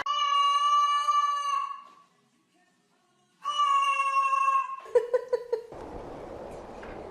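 Cat giving two long, level meows, each about a second and a half, with a short pause between them. A few quick short sounds follow about five seconds in.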